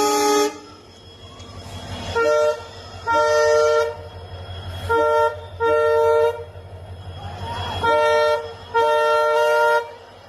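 Train locomotive horn sounding a two-note chord. A long blast ends about half a second in, then three times a short blast is followed by a longer one, over a low rumble.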